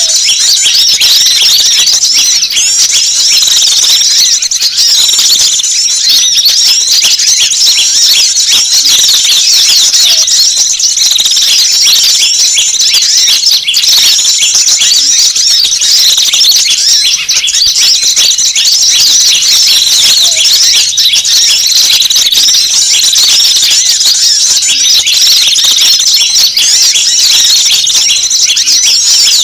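A dense, unbroken chorus of many small wild songbirds chirping and twittering at once: rapid high-pitched calls overlapping without a break. It is a mixed-species lure recording (pikat) made to draw wild small birds in.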